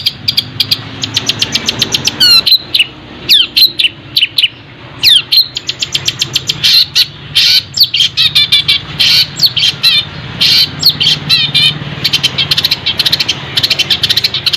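Songbird singing a fast, varied song: rapid runs of sharp chirps and trills, broken by quick downward-sliding whistles.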